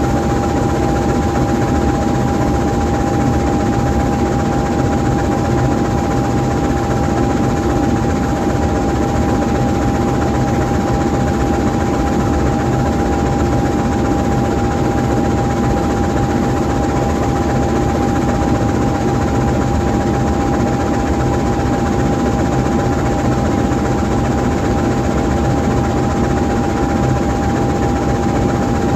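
GE U20C diesel-electric locomotive idling while stopped, its 12-cylinder GE FDL diesel running steadily. A steady high whine sits over the engine.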